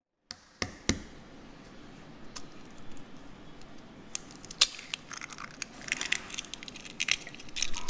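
Kitchen prep handling sounds: scattered sharp clicks and crackles of items being handled, growing busier about five seconds in.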